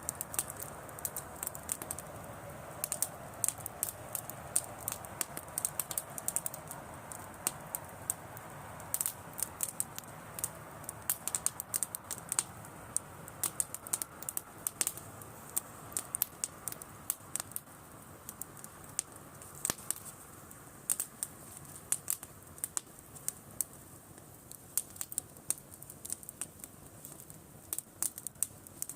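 Driftwood campfire crackling: a dense, irregular run of sharp pops and snaps over a soft hiss of burning that fades about halfway through.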